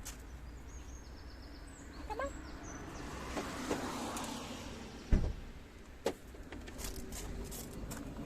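Outdoor background noise with a low rumble and a swell in the middle like a passing vehicle, a brief chirp about two seconds in, and a sharp low thump about five seconds in followed by a lighter knock a second later.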